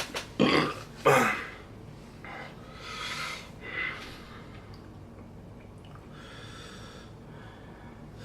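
A man breathing hard through his mouth against the burn of very spicy instant noodles. Two loud bursts come about half a second and a second in, then quieter hissing breaths.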